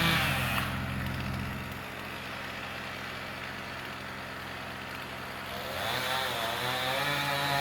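An engine idling steadily, dropping a little in level after the first second and picking up again about six seconds in.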